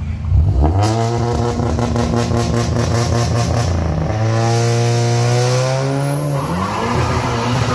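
Volkswagen Golf GTI's turbocharged four-cylinder engine revving hard as the car pulls away. The engine note holds, breaks near four seconds, climbs in pitch, then changes again past six seconds, where a high rising whine joins it.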